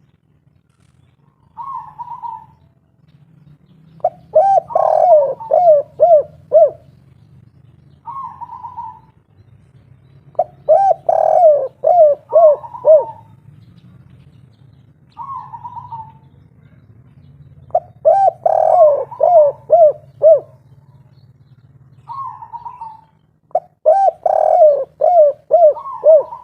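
Spotted dove (tekukur/derkuku) cooing its 'kuk 3' song. Four phrases of five or six falling coos come about every seven seconds, with single shorter, higher coos between them.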